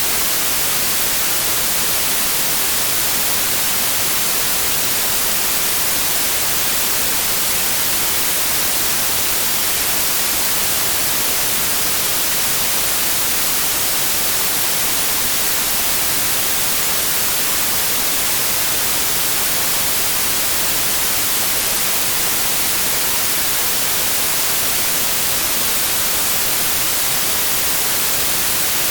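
Steady, unbroken white noise: an even hiss across all pitches, brightest in the treble, with no change over time.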